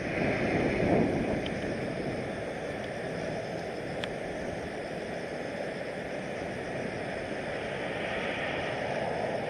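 Strong wind buffeting the microphone over the steady rushing noise of a jet airliner, a Boeing 787-9 going around in gusty crosswind. The wind gusts are strongest about a second in.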